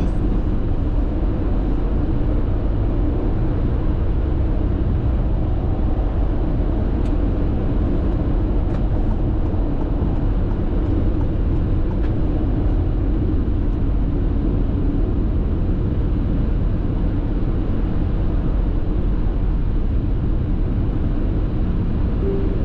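Steady road and tyre noise heard inside a car cruising at constant speed on an expressway, a low, even rumble with no distinct events.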